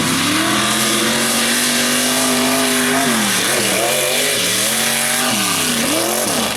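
Mega mud truck's engine at high revs, rising in pitch, held steady for a couple of seconds, then falling and rising again several times as the throttle is worked.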